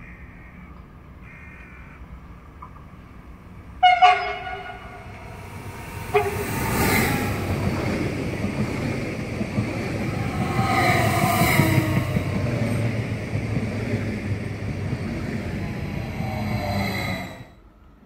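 SBB electric multiple unit sounding its horn twice, a loud blast about four seconds in and a short one about two seconds later, then rushing past close by. The passing noise builds, peaks midway and cuts off suddenly near the end.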